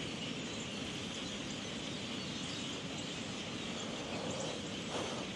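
Steady outdoor din of a large flock of birds calling, blended with a constant hiss of wind.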